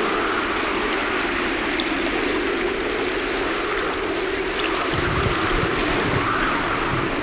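A steady rushing noise, with a few low thumps about five to six seconds in.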